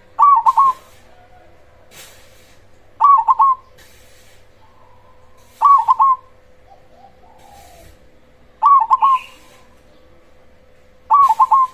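Zebra dove (perkutut) cooing, a short phrase of three or four quick notes repeated five times, about every three seconds, the last starting near the end. A faint steady hum lies underneath.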